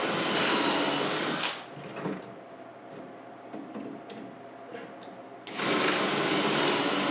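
Electric drill boring dowel holes into wood through a doweling jig: two runs of steady motor whine with cutting noise, the first lasting about a second and a half, the second starting about five and a half seconds in. Light knocks and handling in between.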